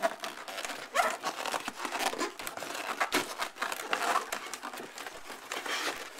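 Packaging being handled: continuous crinkling and rustling with many sharp crackles as the laptop stand is pulled out of its box and wrapping.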